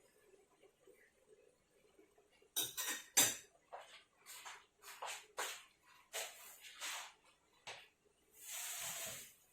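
Utensil scraping and clinking against a dish in about a dozen short strokes, then one longer scrape near the end.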